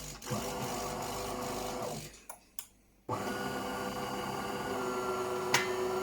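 De'Longhi Magnifica EVO bean-to-cup coffee machine running its power-on self-test and rinse: an internal buzz runs for about two seconds, stops for about a second, then starts again and runs steadily. A sharp click comes about five and a half seconds in.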